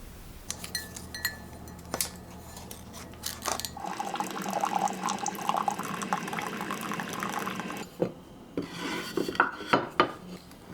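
Kitchen dishes and utensils clinking and knocking. In the middle a few seconds of running water or rinsing fill in between the knocks, and a cluster of sharper knocks comes near the end.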